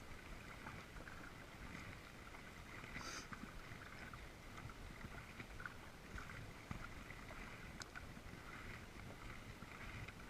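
Faint water sounds of a kayak paddle dipping and splashing in repeated strokes, over a low wind rumble on the microphone.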